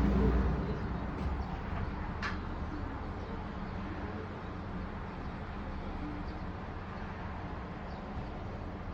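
Steady low hum and rumble of the stopped Seohae Geumbit train, standing with its doors open. A louder rumble fades out within the first half second, and there is a single sharp click about two seconds in.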